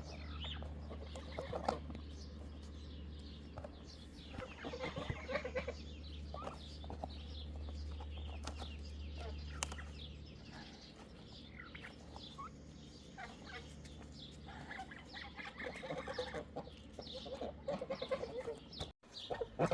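Chickens clucking and calling in scattered short bursts, over a low steady hum that stops about halfway.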